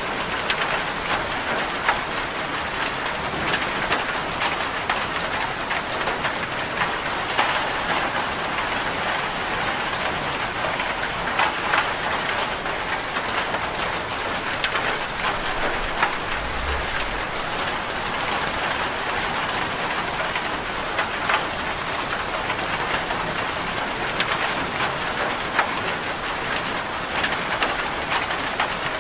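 Steady rain falling, an even hiss dotted with many sharp drop ticks.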